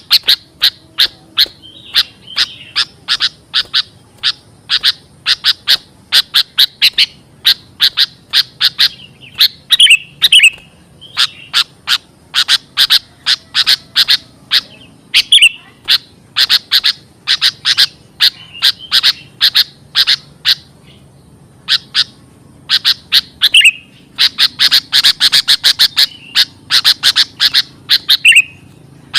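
Sooty-headed bulbul (kutilang) lure call: fast runs of sharp, chattering notes broken by short pauses, with now and then a downward-slurred whistle.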